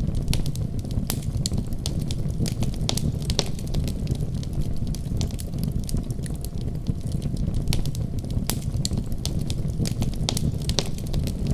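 Wood fire burning steadily with a low rumble of flames and frequent, irregular sharp crackles and pops.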